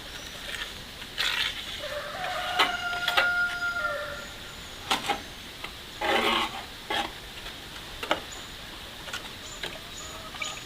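Chickens: a rooster crowing with one long held call about two seconds in, and hens clucking, among a few sharp knocks.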